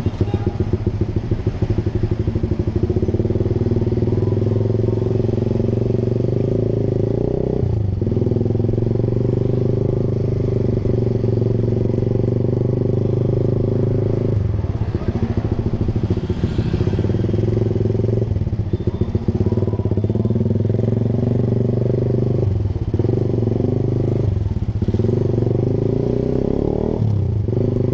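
Honda Sonic 150R's single-cylinder engine running through a Proliner TR1R short aftermarket exhaust while the bike is ridden. Its steady note breaks off briefly about six times and picks up again as the throttle is eased and reopened.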